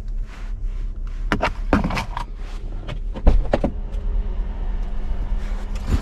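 Pickup truck door and things in the cab being handled: several clicks and knocks, the loudest a thud a little past three seconds in, over a low steady hum.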